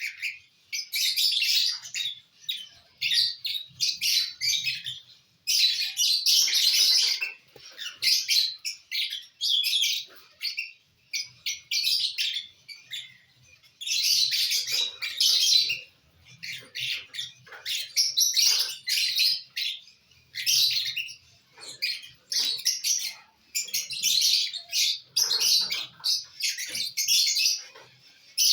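Pet lovebirds chattering in quick, high bursts of chirps, a second or two each, with short pauses between.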